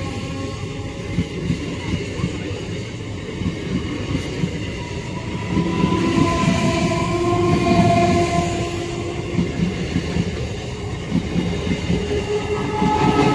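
Electric multiple unit (EMU) local train passing close by, its wheels clattering on the rails over a continuous rumble, with a few steady tones on top. It grows louder from about halfway through.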